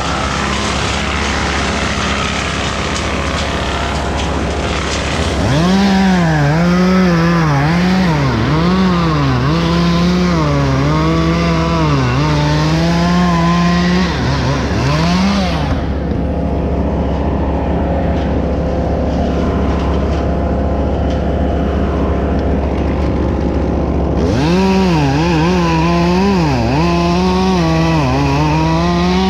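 Two-stroke chainsaw cutting wood, its engine pitch repeatedly dipping and recovering as the chain bites and frees. The saw drops back for several seconds in the middle, then resumes cutting. A steady low engine drone runs underneath.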